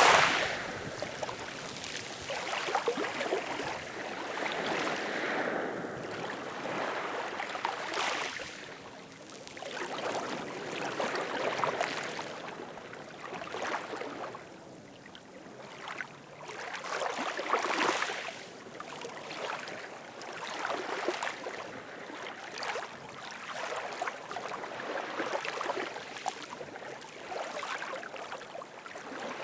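Ocean surf: waves breaking and washing in, swelling and fading in irregular surges a few seconds apart.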